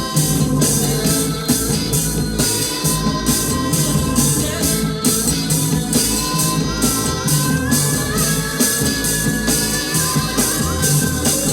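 Instrumental rock music: a sustained electric lead guitar line that bends and climbs in pitch over bass and a steady drum-kit beat, with no vocals.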